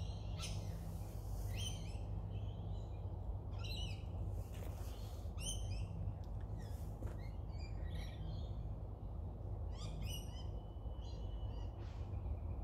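Wild garden birds calling on and off: short, high chirps, many sliding downward, with one longer held whistle near the end, over a steady low rumble.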